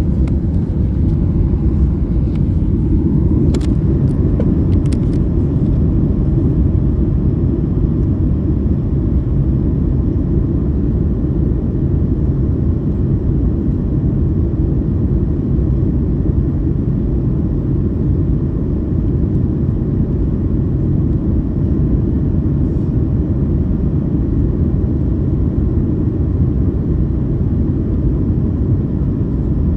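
Steady, loud airliner cabin rumble of engines and airflow in flight, with a few faint clicks about four seconds in.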